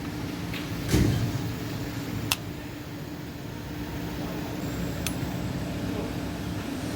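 A few metallic tool sounds from a 10 mm wrench working the inhibitor switch's mounting bolts: a knock about a second in, a sharp click a little after two seconds and a faint tick near five seconds, over a steady low hum.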